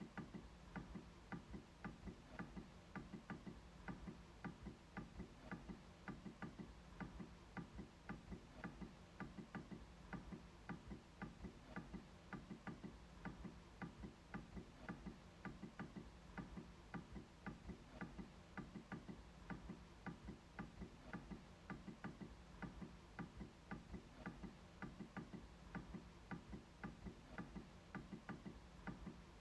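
MacBook trackpad being clicked over and over in a steady, even run of quiet clicks.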